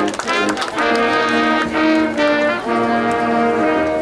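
Band's brass section playing loud held chords that change about once a second, with a few sliding notes at the start; the music stops near the end.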